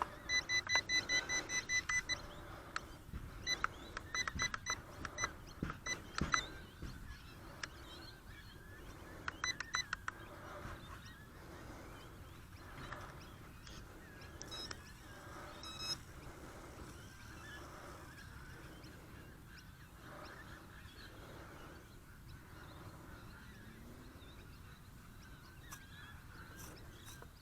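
Radio-control gear beeping: runs of short, quick electronic beeps in the first ten seconds or so, typical of the model helicopter's electronics initialising and arming before flight. Faint steady noise follows.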